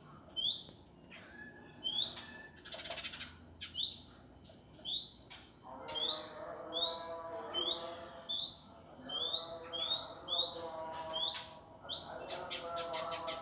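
Indigo bunting song: a run of short, sharp upward-sweeping chirps repeated about once or twice a second, joined about six seconds in by a lower, harsh buzzy call, and ending in a fast rattling trill.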